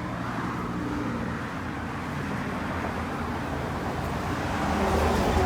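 Steady road traffic and vehicle engine noise, with a low rumble that grows louder near the end.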